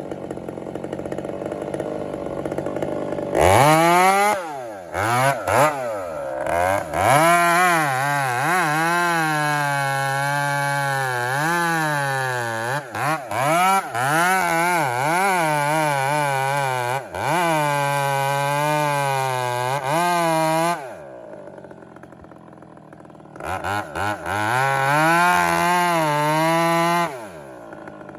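Two-stroke chainsaw idling, then revved to full throttle a few seconds in. Its pitch repeatedly sags and recovers as the chain bites into wood under load. It drops back to idle for a couple of seconds about three-quarters through, then revs and cuts again.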